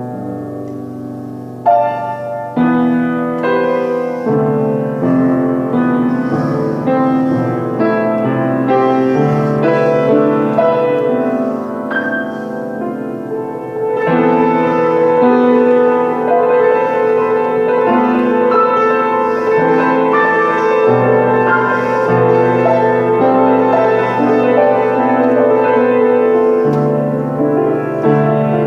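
Solo piano music, slow and chordal, growing fuller about halfway through.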